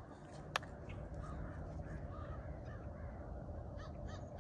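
Birds calling over and over in short, harsh, caw-like calls that come more regularly and clearly in the last half-second and keep going. There is one sharp click about half a second in, and a low steady rumble underneath.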